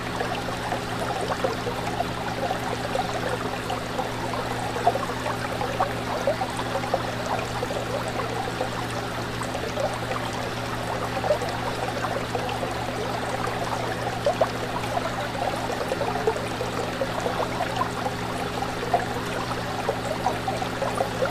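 Aquarium water bubbling and trickling without pause, with small pops here and there, over a steady low hum.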